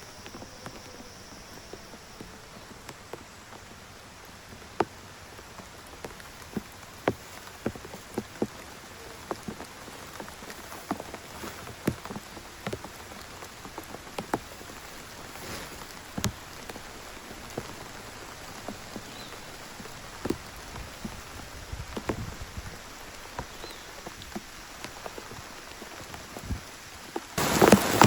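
Rain with scattered individual drops striking a surface, then suddenly much louder and denser just before the end.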